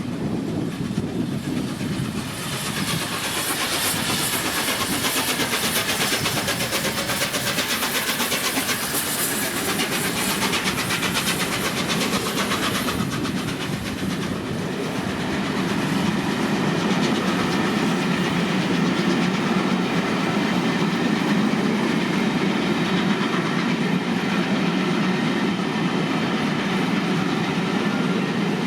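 Passenger train running past at speed: wheels clattering rhythmically over the rail joints over a continuous rumble. The clatter is sharpest in the first half and settles into a steadier, lower rumble about halfway through.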